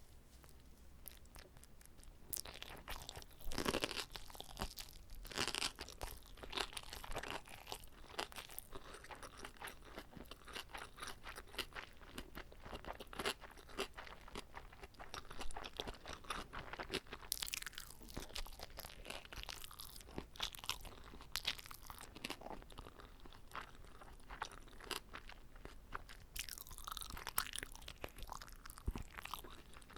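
A person chewing and biting into a whole, uncut kimbap (seaweed rice roll), with irregular wet, crunchy mouth sounds throughout and a louder bite about three to four seconds in.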